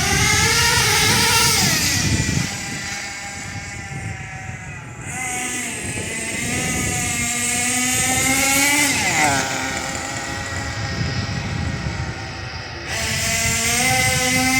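Nitro RC car's OS CVR .18 two-stroke glow engine running hard, its high-pitched note repeatedly climbing and dropping as the car accelerates and slows.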